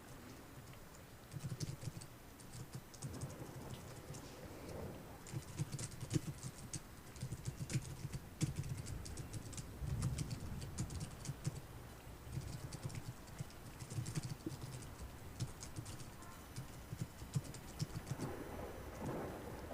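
Typing on a computer keyboard in bursts of quick keystrokes with short pauses between them.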